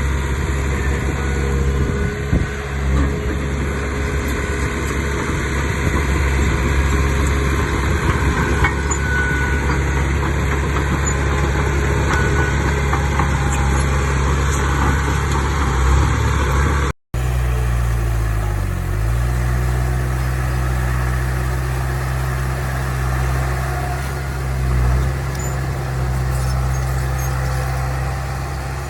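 Heavy diesel earthmoving machinery running steadily. The sound breaks off for a split second about two-thirds of the way through, then goes on with a brief drop and recovery in engine pitch.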